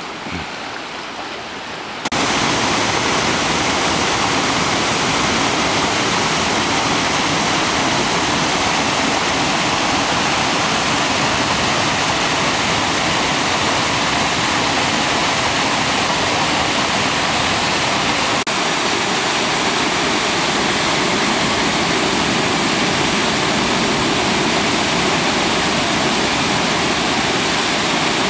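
Waterfall: a loud, steady rush of falling water that starts suddenly about two seconds in.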